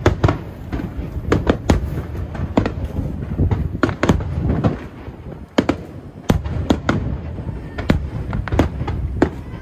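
Fireworks display going off: sharp bangs at irregular intervals, often about two a second, over a continuous low rumble.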